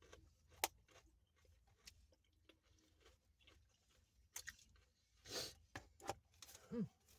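Faint close-up chewing and mouth sounds of a person eating, with scattered clicks, the sharpest about two-thirds of a second in, and a short hum near the end.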